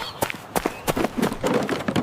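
Cartoon sound effects: a quick, irregular series of light taps and knocks.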